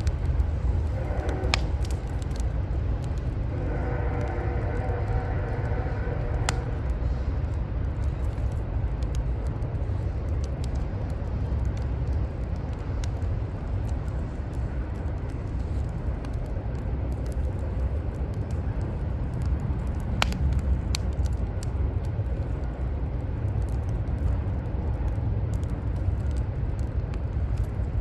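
Wood fire crackling with a few sharp pops, over a steady low rumble of city traffic. A short pitched sound rises above the rumble a few seconds in.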